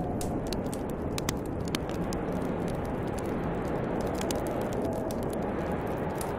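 Snowstorm wind blowing steadily with a faint, wavering whistle, under the frequent sharp crackles and pops of a burning wood fire.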